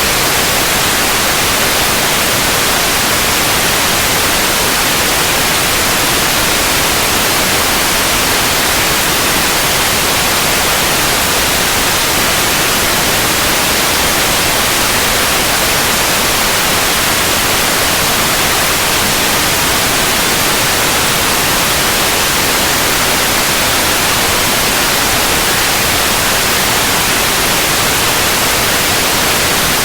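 Steady, unbroken white noise: an even hiss across all pitches, brightest in the highs, with no change.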